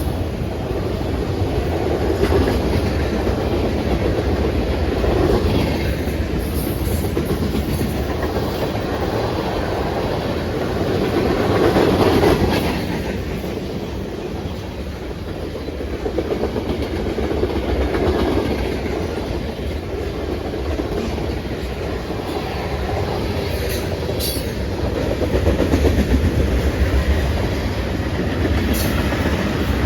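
A train rolling past at close range, its wheels clattering over the rail joints. The sound swells and eases as the cars go by, with a few sharp high clicks.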